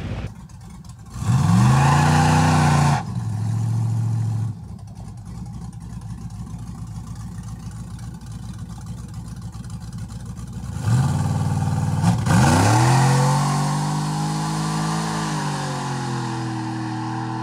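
V8 engine of an LS-swapped Mopar truck revving hard twice on test hits: a short pull of about two seconds, then after a quieter stretch a longer pull held for about six seconds, its pitch slowly sinking.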